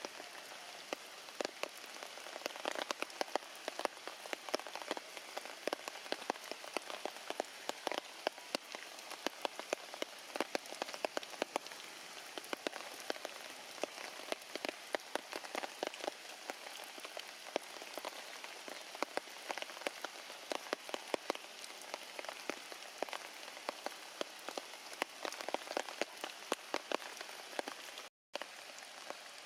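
Heavy rain falling, a steady hiss with many sharp drops and drips striking close by. The sound cuts out for a moment shortly before the end.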